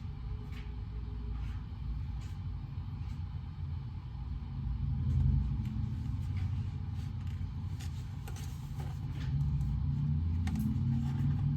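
Study-room background noise: a steady low rumble that swells twice, with faint small ticks and clicks scattered through it.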